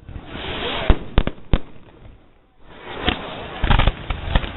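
Fireworks going off: a hissing rush with three sharp bangs about a second in, a short lull, then a dense run of crackling bangs.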